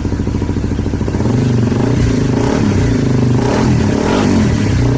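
Honda CBR250R's single-cylinder engine running through an aftermarket Delkevic exhaust, idling, then revved in several throttle blips from about a second in, the revs rising and falling.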